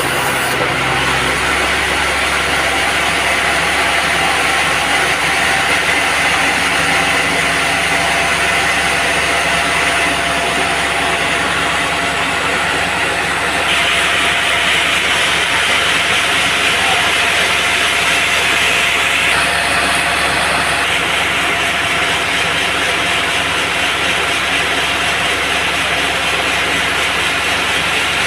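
Band sawmill running and sawing a teak log, a steady loud machine noise that grows louder and brighter about halfway through.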